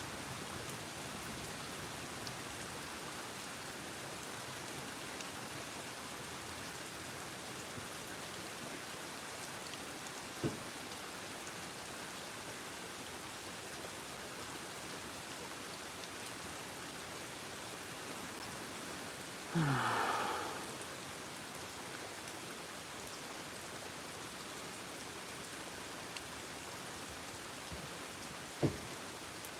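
Steady rain falling, a constant hiss. A sharp tap about ten seconds in and another near the end, and about twenty seconds in a brief louder sound that falls in pitch.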